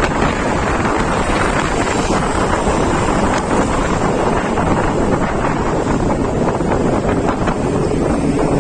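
Wind buffeting the microphone on a moving ride: a loud, steady rush of wind noise, with vehicle noise mixed in beneath it.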